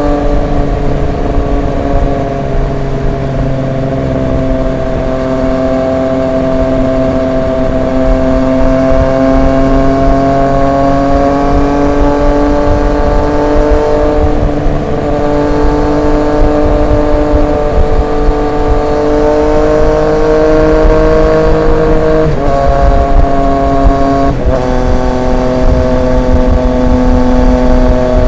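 Triumph Street Triple 765 RX's inline three-cylinder engine through an SC Project S1 exhaust, under way with the revs creeping slowly upward. Twice near the end the note breaks off and steps to a new pitch, as at a gear change.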